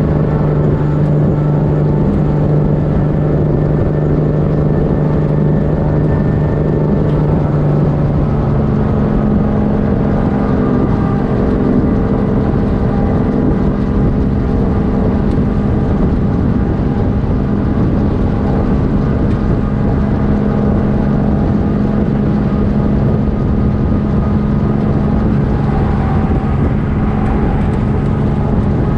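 Kenworth W900 truck's straight-piped diesel engine running loud and steady under way; its note steps up in pitch about eight seconds in and holds there.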